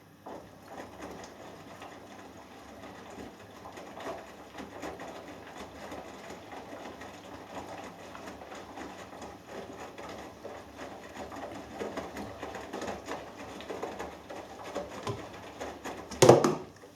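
Hoover Dynamic Next front-loading washing machine's drum turning during the wash, with wet laundry tumbling and water sloshing. The drum starts suddenly and runs for about sixteen seconds, and near the end there is one loud thud from the load just before it stops.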